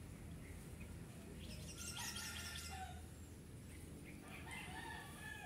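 Birds calling faintly: a cluster of short chirps about two seconds in and a few more near the end.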